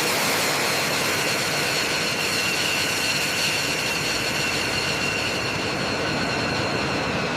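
Steady machine noise: an even hiss with a faint, constant high-pitched whine, unchanging throughout.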